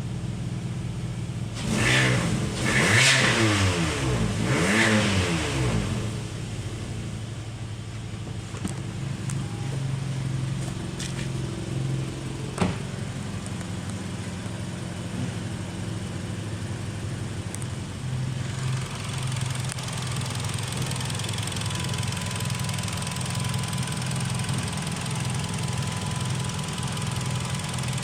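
Hyundai ix35 engine running steadily, blipped three times in quick succession about two seconds in, each rev rising and falling back, then settling to a steady idle. A single sharp click about twelve seconds in.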